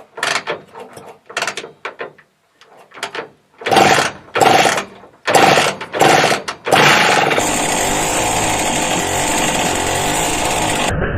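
An engine turning over in several short, uneven bursts, then catching and running steadily with a hard, rattling clatter from about seven seconds in.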